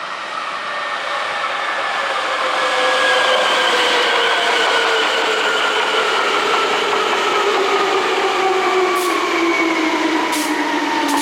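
Hankyu Kyoto Line resistor-controlled electric train running, its traction motor and gear whine falling slowly and steadily in pitch as the train slows. Three brief high hisses come near the end.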